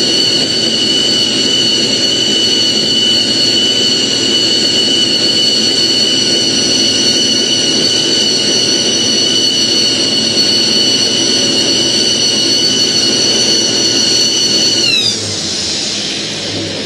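1952 Kenworth Needle Nose's diesel engine held at high revs during a burnout, with a steady high whine over the engine. About fifteen seconds in the throttle comes off: the whine glides down and the engine falls away.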